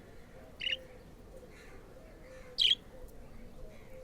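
Budgerigar giving two short, sharp chirps about two seconds apart, the second one louder.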